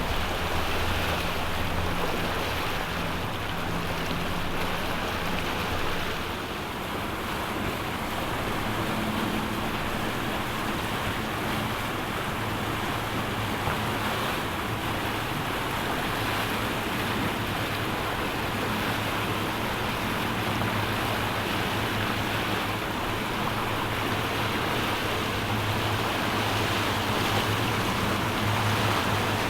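Steady rush of water and wind with the low, even drone of boat engines running underneath.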